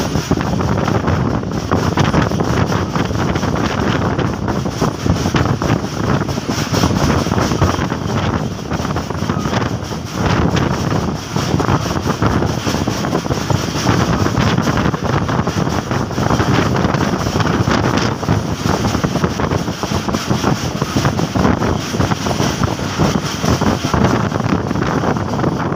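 Passenger train coach running at speed, a steady rumble and rattle of wheels on the track, with wind buffeting the microphone at the open door.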